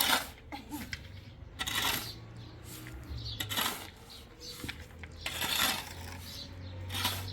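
Repeated scraping strokes, about one every two seconds, each lasting about half a second.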